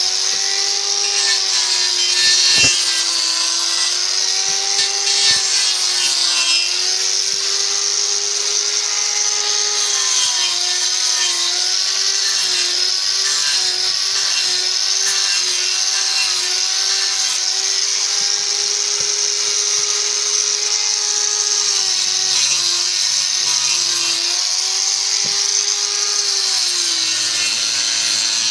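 A high-revving electric power tool cutting into wood. Its motor pitch dips again and again as it is pressed into the work and recovers, over a steady hiss of abrading wood, with a couple of light knocks early on.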